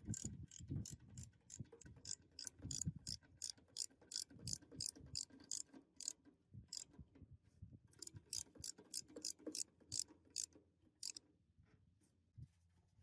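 Ratchet wrench clicking in an even run of about four clicks a second for about six seconds, then again for about three seconds after a short pause.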